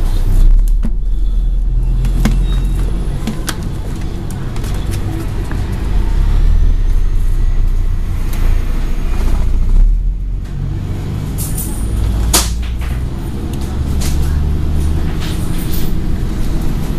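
Scania N113 double-decker bus's diesel engine running under way, heard from on board, its low note shifting a few times as the bus drives. A short sharp hiss sounds about twelve seconds in.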